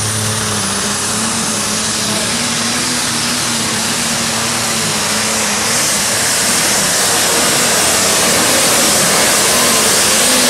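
Super stock pulling tractor's turbocharged engine running flat out under load during a pull, loud and continuous, getting louder over the last few seconds.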